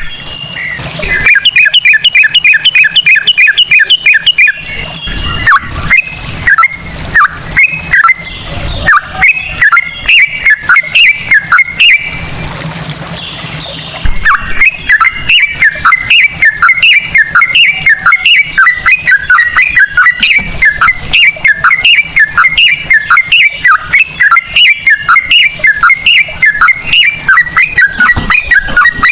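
Yellow-vented bulbul (trucukan) singing a fast, continuous run of short whistled notes, several a second, in the rapid 'ropel' style with straw-headed-bulbul-like phrasing. There is a brief lull about twelve seconds in.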